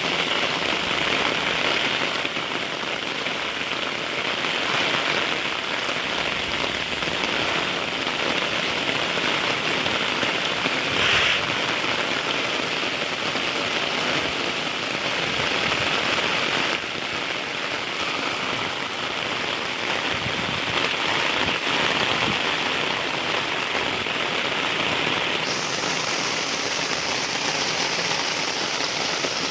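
Heavy rain falling steadily, a dense even hiss, briefly louder about a third of the way through and turning brighter and hissier near the end.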